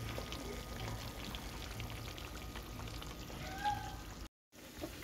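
Diced potatoes frying in oil in a skillet: a steady light crackle of small pops over a low hum. About three and a half seconds in there is a brief high-pitched call, the loudest moment. Shortly after, the sound cuts out for a fraction of a second.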